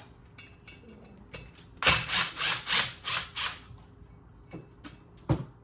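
Ratchet wrench worked in a quick run of about six rasping strokes on the 2.0T engine's fittings, followed by a few single metal clicks near the end.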